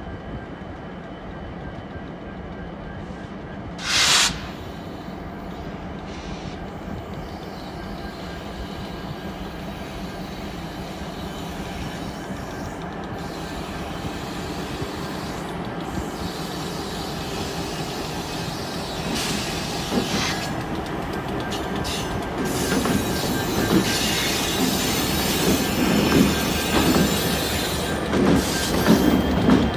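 Canadian Pacific freight train led by GP38-2 and SD60 diesel locomotives rolling slowly past, its engine rumble and wheel noise growing steadily louder as the locomotives draw near, with some wheel squeal. A brief, sharp, loud noise comes about four seconds in.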